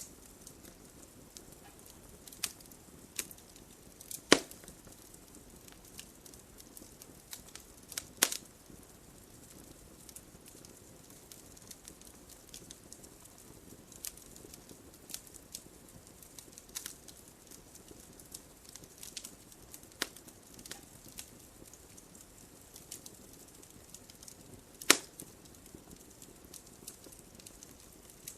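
Wood fire burning in a fireplace: a low steady hiss with scattered crackles and a few loud sharp pops, the loudest about four, eight and twenty-five seconds in.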